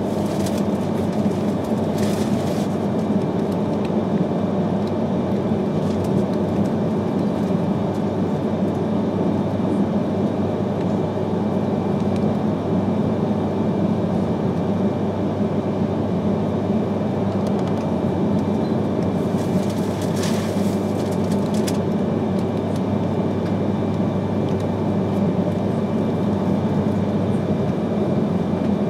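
Steady running noise of an E3-series Shinkansen train heard inside the passenger cabin: a low, even rumble of wheels on rail. There is a brief burst of hiss about two seconds in and another around twenty seconds in.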